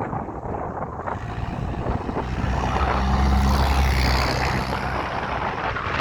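Train's diesel locomotive passing: a deep engine drone builds about two seconds in and is loudest near the middle. Wheel and rail hiss carries on under it and comes to the fore near the end.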